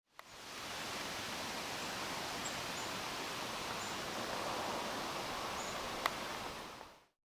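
Steady outdoor ambient noise, an even rustling hiss, fading in at the start and out near the end. Faint high chirps come through a few times, and there is a sharp click about six seconds in.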